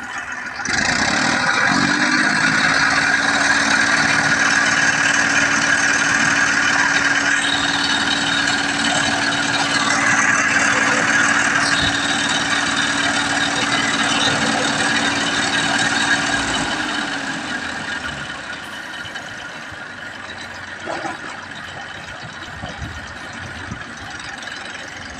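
TAFE 45 tractor's diesel engine running as a sound demonstration. About a second in it picks up to a higher, steady speed, and it drops back to a quieter idle after about 17 seconds.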